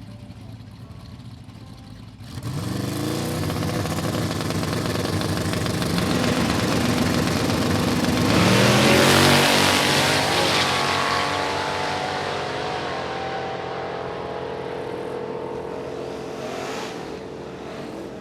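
Chevrolet C10 drag truck launching hard about two seconds in and making a full-throttle pass, its engine climbing in pitch again and again through the gears. It is loudest about halfway through as it goes past, then slowly fades down the track.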